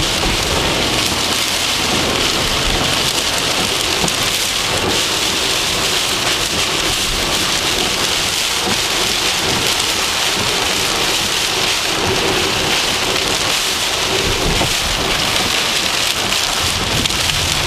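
Heavy thunderstorm rain pelting a car, heard from inside as a steady, dense hiss with no let-up.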